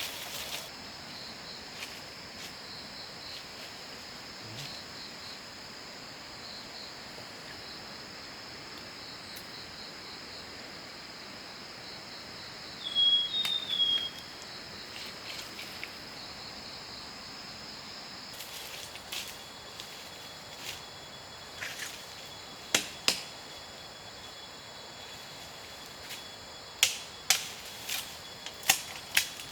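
Insects trilling steadily in forest ambience, a bird giving a couple of short, loud chirps about halfway through, and a run of sharp knocks or clicks in the last several seconds.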